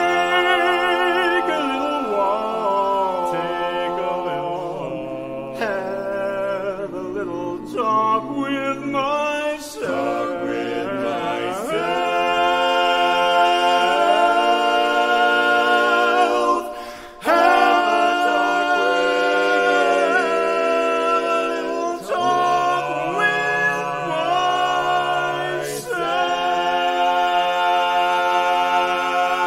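Barbershop quartet singing a cappella in close harmony, with long held chords and a short break about halfway through.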